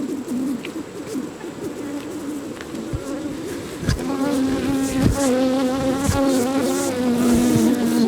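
Honeybees buzzing around an open hive during an inspection, a wavering hum that grows louder about four seconds in, with a few short knocks mixed in.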